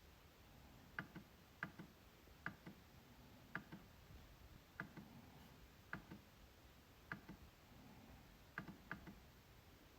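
MacBook trackpad being clicked: about a dozen short, sharp clicks at irregular intervals, some in quick pairs like double-clicks.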